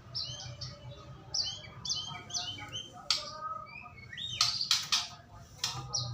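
White-rumped shama (murai batu) singing a fast run of varied whistled phrases and chirps, with a few harsh rasping notes about halfway through, over a low steady hum.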